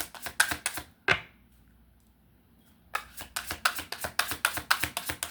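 Tarot cards being shuffled by hand: a fast run of card slaps and riffles that stops for about two seconds, then starts again.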